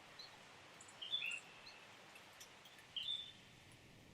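A small bird chirping in short high calls, the clearest about a second in and near three seconds, over a faint steady hiss of forest ambience.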